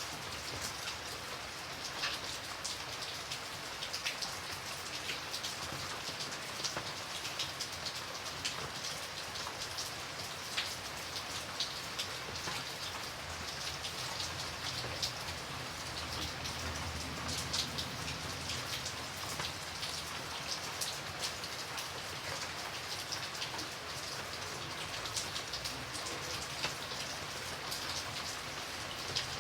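Steady rain falling, a continuous hiss with many individual drops ticking and pattering on a surface.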